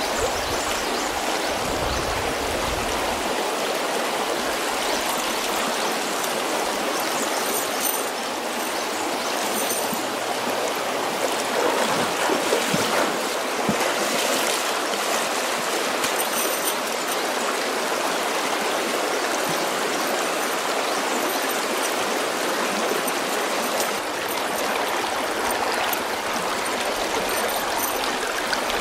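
Steady rush of water flowing in a stream.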